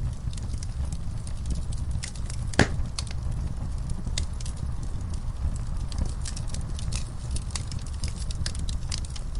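Wood fire burning in a fireplace: a steady low rumble of flames with irregular sharp crackles, and one louder pop about two and a half seconds in.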